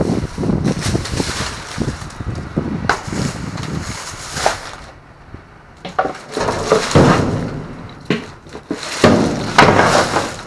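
Irregular rustling and clattering of plastic bags and discarded goods being rummaged through in a dumpster, with sharp knocks and crinkling coming in uneven bursts.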